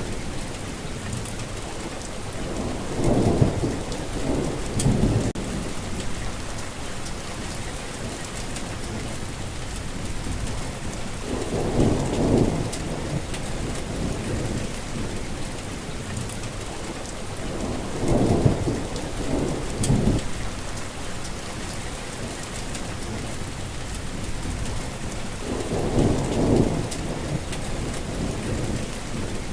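Heavy rain falling steadily, with four low rolls of thunder, each lasting a second or two, coming at intervals of roughly seven to eight seconds.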